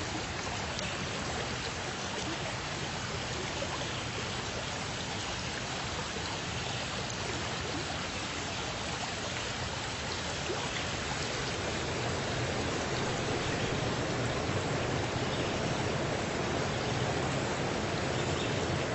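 Water flowing in a stream, a steady rushing that grows a little louder about halfway through.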